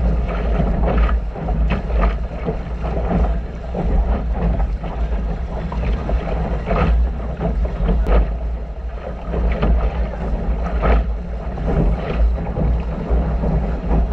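Wind buffeting the microphone aboard a small sailboat under way, with water splashing along the hull now and then.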